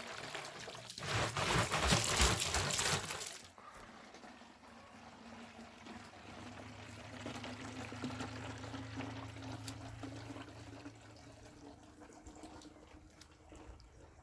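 Liquid being poured in a loud, even stream that stops suddenly about three and a half seconds in. Then only a faint, low, steady hum.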